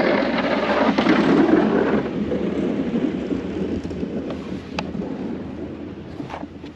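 A motor running with a low, rumbling noise that gradually fades away, with a few light knocks near the end.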